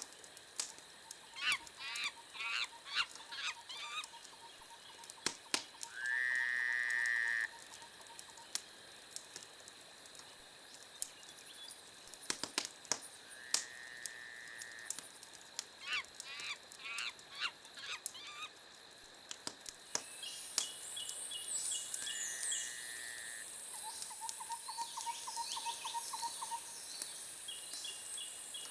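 Several birds singing, their calls overlapping: quick series of chirps, long held whistled notes and trills. Sharp crackles of a wood fire are scattered throughout.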